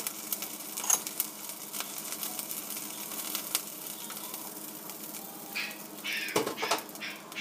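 Whole prawns frying in a stainless-steel wok: a steady sizzle full of small crackles and pops. Near the end come a few louder clatters as tongs lift the prawns out of the pan.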